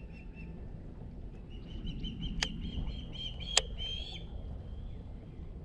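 A bird calling in runs of quick, high, repeated chirps; the second run rises slightly in pitch and ends in a longer drawn-out note. Two sharp clicks about a second apart stand out in the middle.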